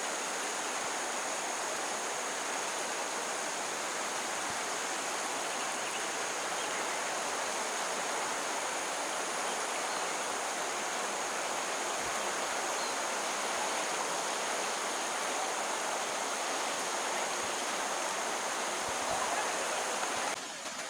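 A flowing stream rushing steadily as a dense, even water noise, dropping a little in level near the end.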